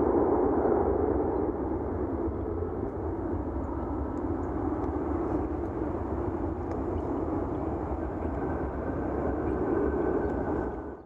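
Jet airliner engines heard at an airport: a steady rushing rumble, with a faint high whine joining about eight seconds in.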